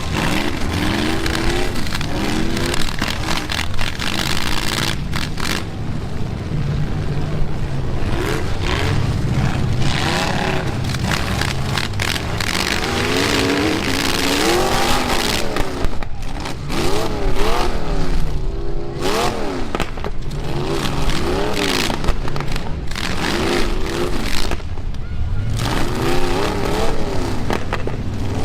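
Engines of stock pickup trucks in a demolition derby revving hard, their pitch rising and falling over and over, with repeated crashes and scraping of metal as the trucks ram each other.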